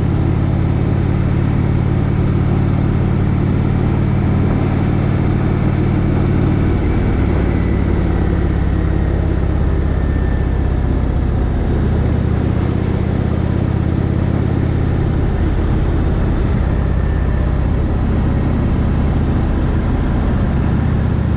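Motorcycle engine running under way with a steady low drone, its note shifting about seven seconds in and again around fifteen seconds.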